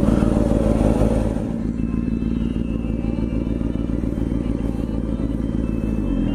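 Motorcycle engine running steadily, a low rumble with no clear revving.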